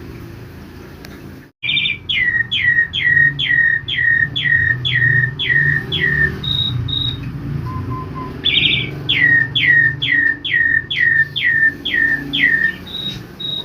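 Pied starling (jalak suren) song: a run of repeated downward-sliding whistles, about two or three a second, each run opened by a short choppy note and followed by two short high whistles. It starts abruptly after a moment's silence and comes twice, with a pause between the runs.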